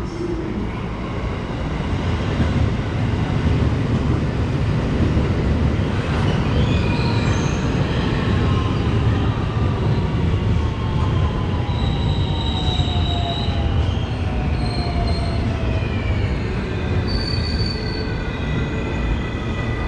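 Electric JR West commuter train running into the platform and braking: a heavy rumble of wheels on rails under motor whines that slide down in pitch as it slows, with short high-pitched squeals from the wheels and brakes.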